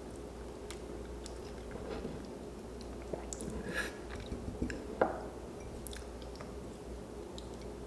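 A person chewing food close to the microphone, with small wet mouth clicks and smacks, busiest in the middle and sharpest about five seconds in.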